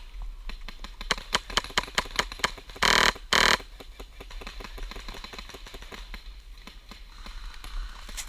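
Airsoft guns firing: a string of separate shots over the first couple of seconds, then two short loud bursts of rapid full-auto fire about three seconds in, with faint scattered shots after.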